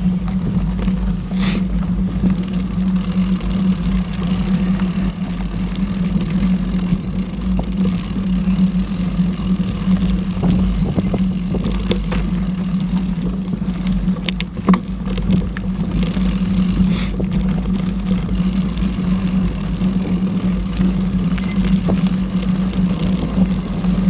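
Mountain bike ridden along a dirt trail, heard from the rider's camera: a steady rumble of tyres and wind, with scattered clicks and knocks from the bike over rough ground. A brief high squeak comes about four seconds in.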